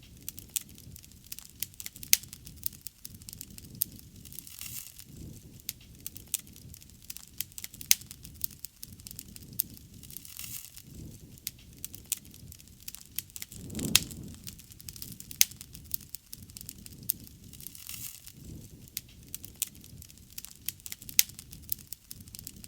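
Wood bonfire crackling, with frequent sharp pops and snaps over the low, wavering rumble of the flames; one louder pop with a brief surge of the flames about fourteen seconds in.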